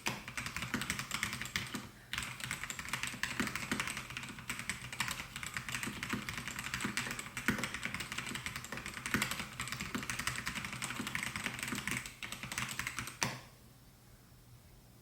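Continuous fast typing on a Melgeek Mojo68 mechanical keyboard with white switches, a dense stream of keystroke clacks. It pauses briefly about two seconds in and stops abruptly near the end.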